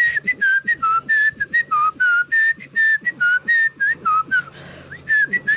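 A person whistling an imitation of the call of the phista, a small bird: a rapid run of short whistled notes, about four a second, hopping between higher and lower pitches, with a short breathy break about four and a half seconds in.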